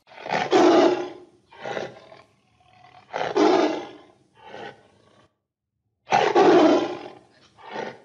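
Tiger roaring: three loud roars about three seconds apart, each followed by a shorter, weaker one.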